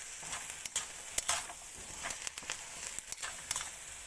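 Sliced mushrooms and onion sizzling in a hot wok, with a steady frying hiss. A spatula stirs them, scraping and clicking against the pan at irregular moments.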